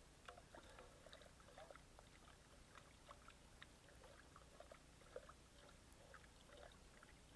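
Near silence, with faint scattered small ticks and crackles over a low steady hiss.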